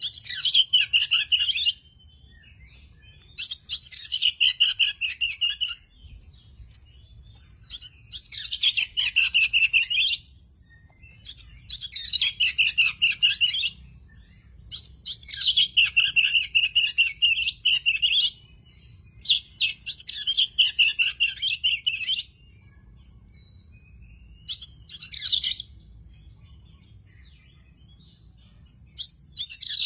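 Oriental magpie-robin (kacer) singing: loud phrases of rapid, varied, high-pitched notes, each two to four seconds long, repeated about eight times with short pauses between.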